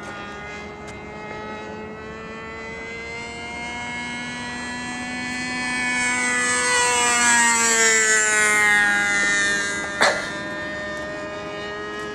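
Thunder Tiger Champion 45L RC airplane's Super Tiger .51 glow engine running steadily in flight, growing louder about six to nine seconds in as the plane passes closer, its pitch dropping as it goes by. One sharp knock about ten seconds in.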